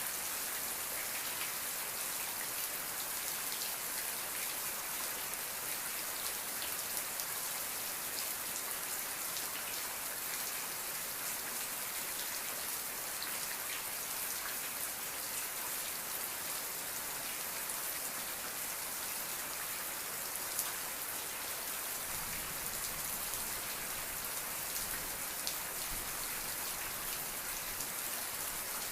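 Steady rain falling, an even hiss with many fine drops ticking on a surface. A faint low rumble joins for a few seconds about three-quarters of the way through.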